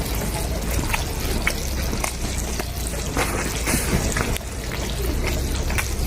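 Liquid bubbling in a cooking pot, with many small irregular pops over a steady low rumble.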